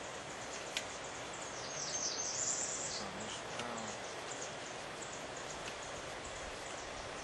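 Outdoor background noise with insects chirping in rapid high ticks; a single sharp click sounds about a second in, and a short hissy high-pitched rush comes around two seconds in.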